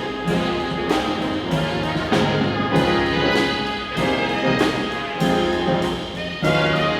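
Live music from a school instrumental ensemble with brass, playing held chords that change on a steady beat, with cymbal or drum hits marking it.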